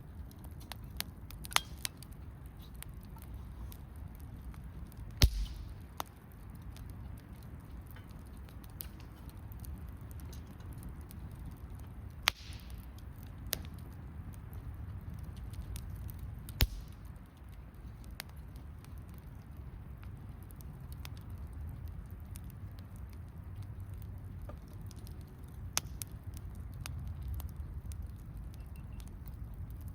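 Wood campfire crackling, with sharp pops scattered through it. The loudest pops come a little after five seconds, at about twelve seconds and at about sixteen seconds, over a low steady rumble.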